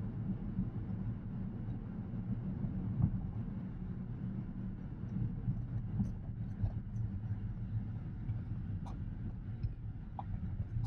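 Steady low road and tyre rumble inside the cabin of a moving Tesla Model X Plaid, an electric car with no engine note.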